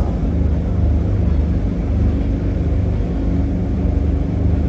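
Electric air blower of an inflatable bounce house running continuously with a steady low hum.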